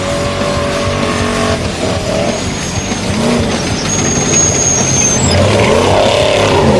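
A Trophy Truck Spec desert race truck's engine running hard under throttle. Its pitch holds, then drops and climbs again with lifts and gear changes about three seconds in and near the end, and it grows louder through the second half.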